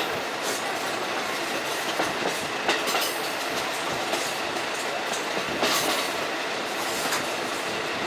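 KiHa 54 diesel railcar running along the line, heard from aboard: a steady rumble of running noise with the wheels clacking over rail joints now and then.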